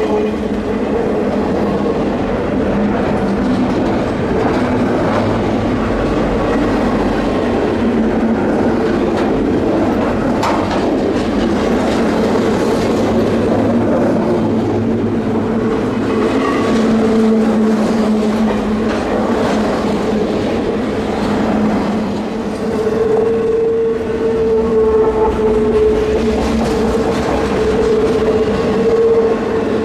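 Freight train cars of eastbound CPKC 100 rolling past, wheels clacking over the rails with a steady rumble and a continuous droning tone underneath.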